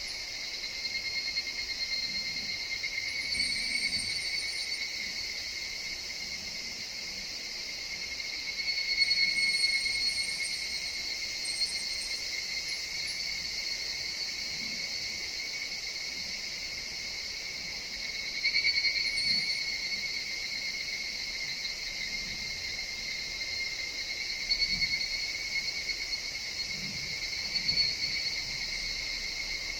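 Higurashi (evening cicadas, Tanna japonensis) calling in a forest chorus: a steady high drone that swells louder several times as individual calls rise over it.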